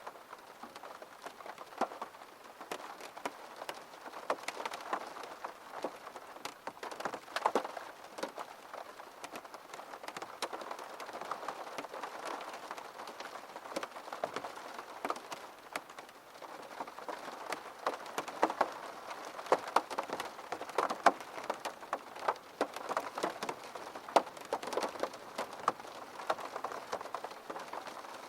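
Steady rain falling on a surface, a continuous patter with many distinct drop ticks.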